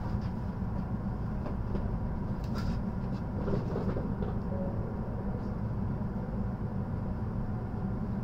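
Steady low hum inside the Green car of an N700S Shinkansen train standing still at a station, with a few faint clicks.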